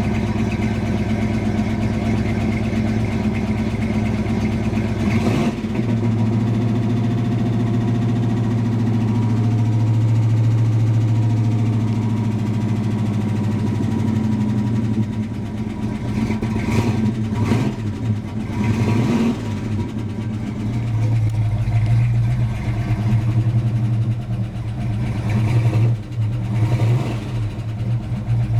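Cadillac V8 in a Plymouth Barracuda running, mostly at a steady idle. About halfway through, a few light throttle blips briefly raise and drop the pitch before it settles back to idle.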